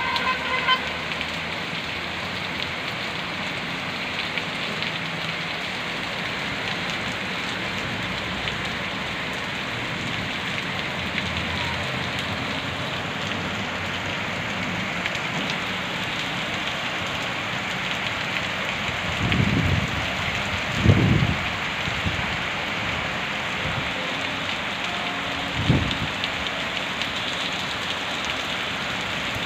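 Steady rain from Cyclone Montha falling in a constant hiss. Three brief low thumps come in the last third.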